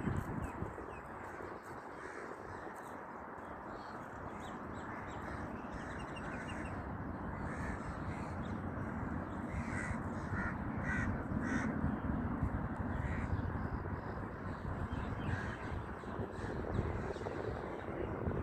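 Harsh, caw-like bird calls, a cluster of them in the middle, over a steady rushing background noise.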